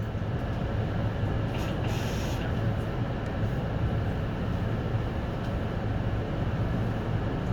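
City bus running along the road, heard inside the cabin: a steady low engine drone with road noise, and a brief hiss about two seconds in.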